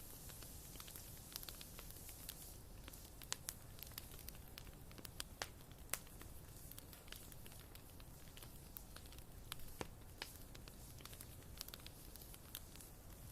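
Wood fire burning in a fireplace, crackling quietly with scattered sharp pops, a few of them louder.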